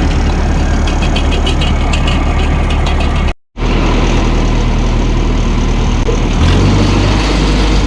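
Old Ferguson tractor's engine running steadily at a low, even drone, cutting out completely for a split second a little under halfway through, then picking up slightly in pitch for a moment near the end.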